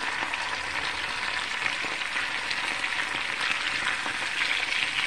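Sliced potatoes and onions frying in vegetable oil in a cast iron skillet, a steady sizzle full of fine crackles. The soft sounds of a silicone spatula turning the pieces over are mixed in.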